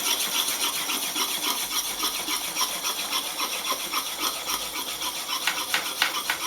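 Steel carving gouge rubbed on a wet fine-grit Japanese water stone in quick, even strokes: a rhythmic wet scraping of sharpening. A few sharper clicks come near the end.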